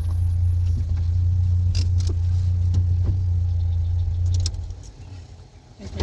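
An engine running with a steady low hum that cuts off about four and a half seconds in, followed by a few faint clicks.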